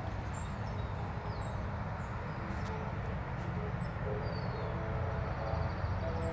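Small birds chirping now and then, short high calls that slide downward, over a steady low rumble.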